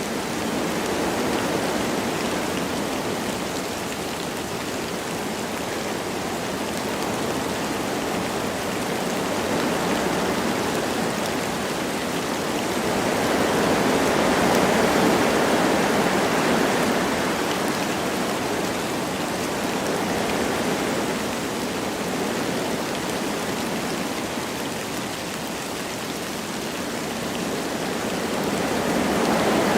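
Wind rushing through forest trees with light rain falling, a steady noise that swells in slow gusts, strongest about halfway through and again near the end.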